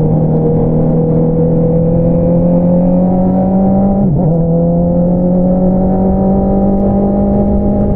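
Honda CBR650R inline-four engine through an Akrapovič single-outlet exhaust, pulling under steady acceleration with slowly rising revs. About four seconds in the revs drop sharply for a quick upshift, then climb again.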